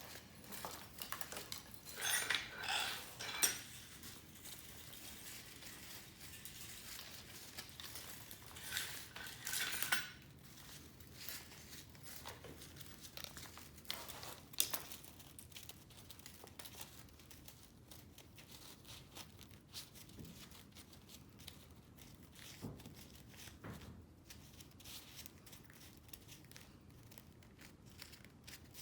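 Metal scrap being handled: small metal parts clinking and scraping, with two louder rasping spells, one a couple of seconds in and one around ten seconds in, then scattered light clicks.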